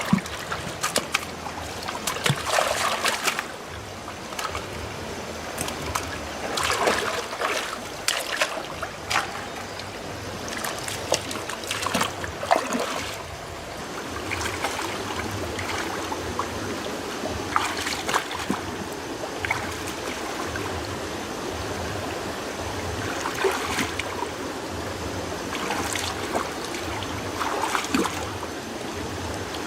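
Water trickling and splashing, with many irregular small splashes and sloshes.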